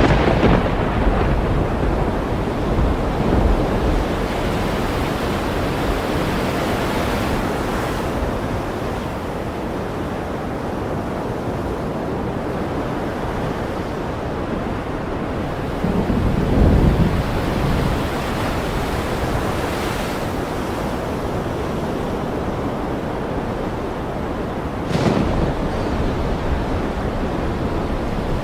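Ocean surf with a thunderstorm: a steady rushing wash of waves, with louder surges about three, sixteen and twenty-five seconds in. The one around sixteen seconds is deep and rumbling.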